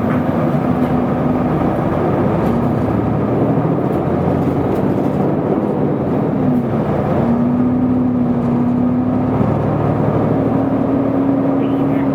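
Isuzu Erga city bus under way, heard inside the passenger cabin: the diesel engine and drivetrain run with a steady hum over road noise. The hum's pitch dips about halfway through, then picks up again and holds.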